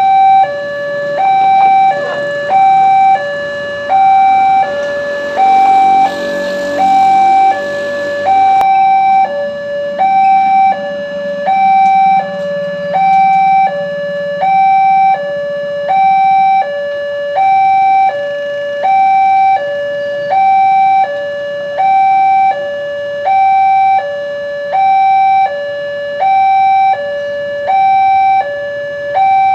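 Railway level-crossing warning alarm sounding, an electronic two-tone signal alternating high and low about every 0.7 seconds, which means the barriers are down and a train is approaching. Around five to nine seconds in, a noisier swell with a low hum rises under it and fades away.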